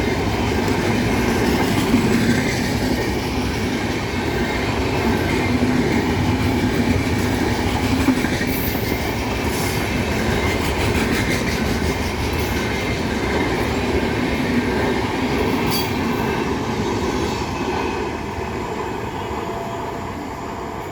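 Swaraj Express passenger train running through the station at speed without stopping, its wheels giving a steady noise on the rails that eases off a little near the end.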